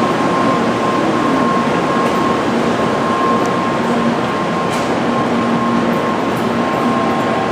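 Steady hum and hiss of a stationary 800 Series Shinkansen train's onboard equipment, with a steady high whine running through it.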